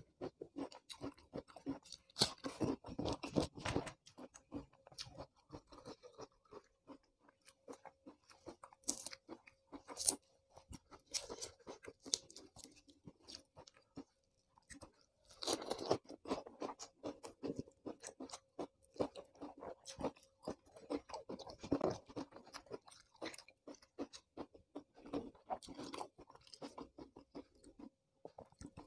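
Close-up chewing and crunching of raw vegetables, in irregular crisp bites and wet chews, with a brief pause about halfway.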